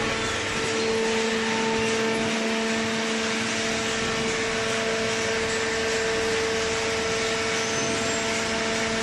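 Horizontal hydraulic baler running: the electric motor and hydraulic pump give a steady hum with a constant whine over machinery noise.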